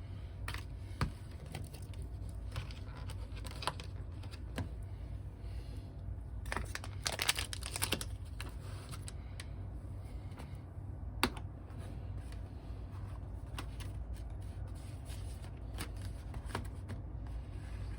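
Small tools clicking and scraping against an iPhone 8 Plus during repair work, with scattered sharp clicks and a short scratchy stretch about seven seconds in, over a low steady hum.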